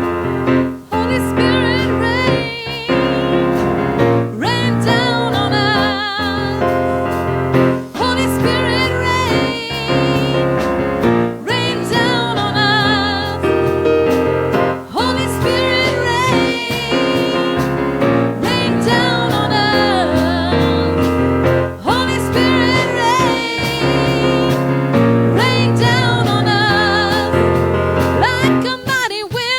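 Gospel worship music: a singer with heavy vibrato over sustained piano or keyboard chords and bass.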